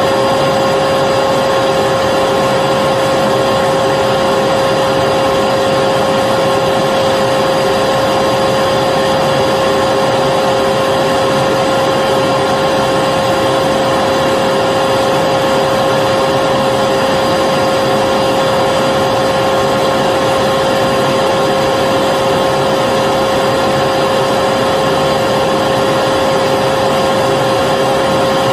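Vacuum cleaner running continuously at constant speed: a steady motor whine over a rushing airflow, with no change in pitch or level.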